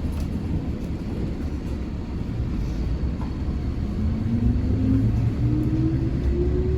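Old JNR-era electric train running, with a low rumble; from a little past halfway a traction-motor whine rises steadily in pitch as the train picks up speed.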